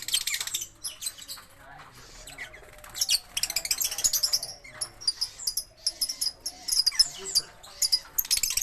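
Lovebirds chattering: rapid, high-pitched trilling calls that come in bursts with short pauses between them.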